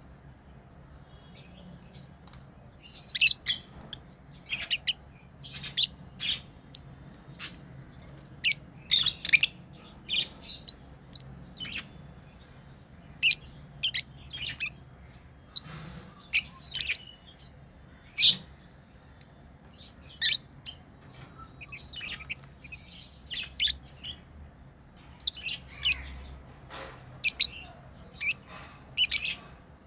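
Pet lovebirds chirping: many short, sharp, high-pitched chirps one after another, some in quick clusters.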